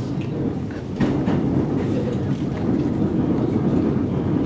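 Electric commuter train running at speed, heard from inside the carriage: a steady rumble of wheels on rail with a few sharp rail-joint clicks. The rumble gets louder about a second in.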